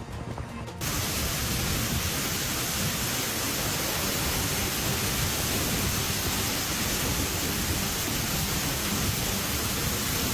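Heavy rain pouring down in a storm: a steady, even hiss that starts suddenly about a second in.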